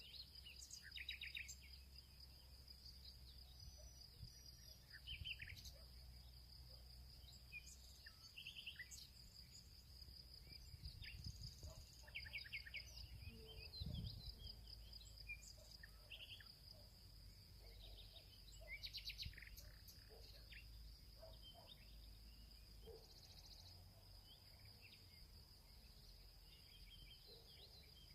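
Faint field ambience: a steady high insect drone with many short bird chirps and trills scattered throughout, over a soft low rumble.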